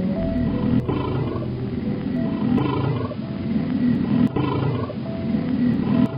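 Tiger growling and roaring, several rough calls in a row, over background music.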